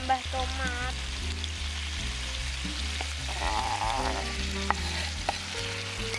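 Chili-tomato spice paste sizzling and frying in a hot wok while being stirred with a metal spatula, as diced tomatoes are scraped in from a cutting board. A couple of sharp taps near the end.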